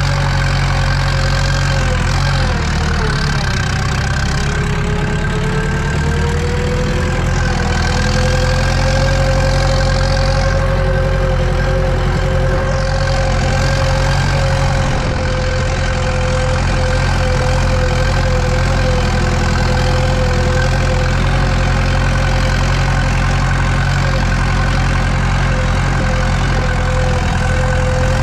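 Eicher tractor's diesel engine running steadily under load while pulling a cultivator, heard from inside the cab. A few seconds in, its pitch sags briefly and then recovers.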